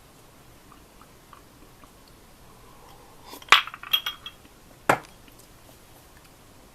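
Dishes and utensils being handled: a quick run of sharp clinks about three and a half seconds in, then a single sharper knock about a second later.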